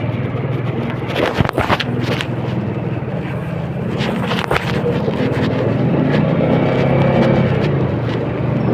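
An engine running steadily, with a few sharp knocks in the first half.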